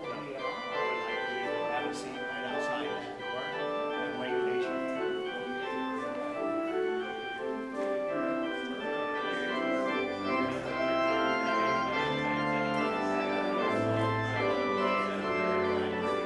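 Church organ playing a slow piece of sustained chords and melody, with deep pedal bass notes coming in about ten seconds in.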